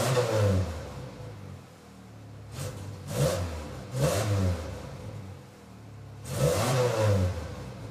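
1992 Ford Ranger's engine and exhaust revved in four throttle blips, each rising and falling back to idle. The exhaust pipe has been cut back 4 inches so only a little sticks into the tip, and the note sounds much better.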